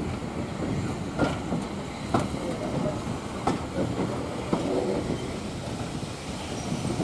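Railway carriages running along the track: a steady rumble with wheels clicking over the rail joints about once a second.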